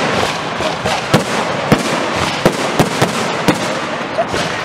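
Aerial fireworks display: a rapid series of sharp shell bursts, roughly one every half second to second, over a continuous dense crackle.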